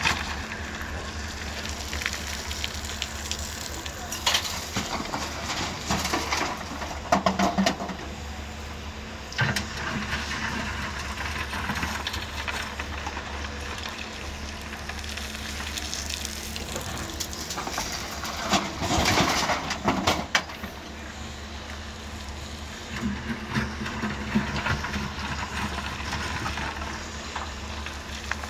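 Diesel engine of a Doosan DX140 excavator running with a steady low hum, with louder spells and knocks about seven seconds in and again around twenty seconds, typical of the machine working its bucket while loading a dump truck.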